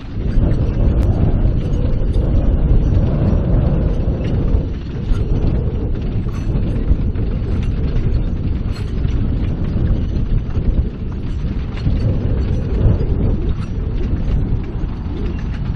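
Sugar cane train rolling past: a loud, steady rumble of locomotive and wagons, with many small clicks from the wheels on the track.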